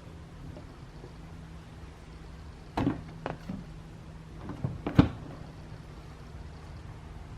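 Several sharp knocks and clunks of hard parts being handled, in two groups, the loudest about five seconds in, over a steady low hum.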